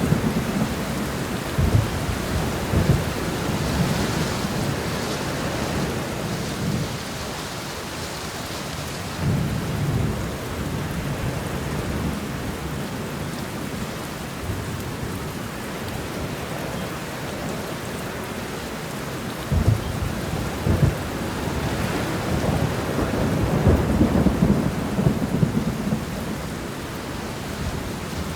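Steady rain shower falling, with low rumbles coming and going throughout.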